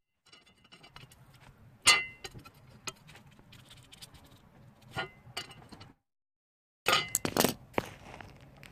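Small metal part, a pipe protector with hooks, being worked by hand: sharp metallic clinks and taps with a brief ring, a couple of single clinks and then a quick cluster of louder ones near the end after a short dropout.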